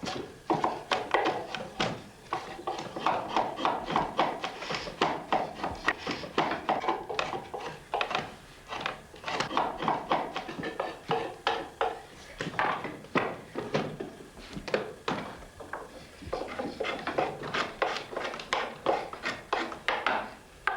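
Draw knife and straight knife shaving a chestnut saddle-bridge blank clamped in a shaving horse: steel on wood in a steady run of short paring strokes.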